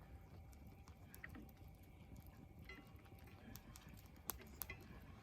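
Faint crackling of a wood campfire: scattered small pops and ticks, with two louder snaps near the end.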